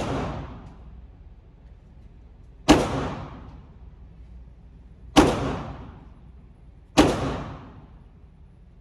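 Glock 19 9mm pistol fired three times in slow, aimed fire, roughly two seconds apart. Each shot rings on briefly in the echo of an indoor range, and the start holds the fading tail of a shot fired just before.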